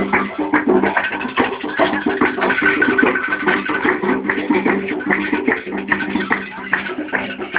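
Candomblé ritual music for Xangô: atabaque hand drums played in dense, rapid strokes over sustained steady tones.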